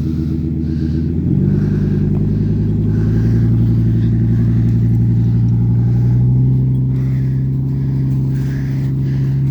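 A vehicle engine running, revving up about a second in and then holding at higher revs under steady throttle.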